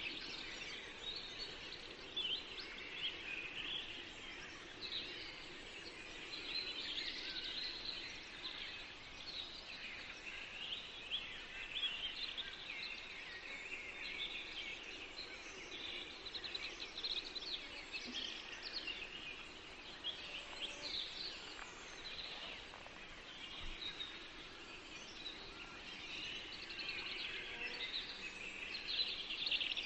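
Many songbirds singing and chirping at once in a forest, a continuous chorus of short trills and chirps, with a faint steady hum beneath.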